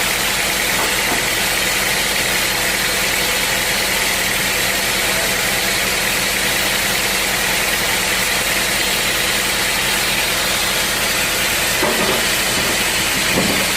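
Sawmill running steadily: a constant engine hum under an even hiss.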